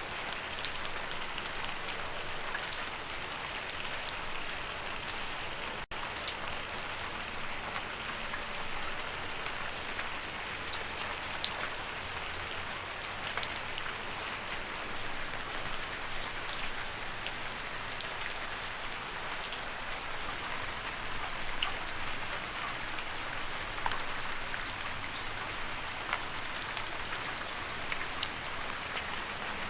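Steady rain falling: an even hiss dotted with sharper individual drop ticks.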